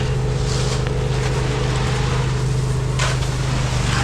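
Diesel engine of a concrete mixer truck running steadily at a constant speed during the pour, with a short burst of noise about three seconds in.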